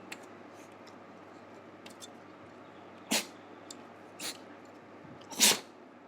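Young beagle sneezing three times, about a second apart, with the last sneeze the loudest.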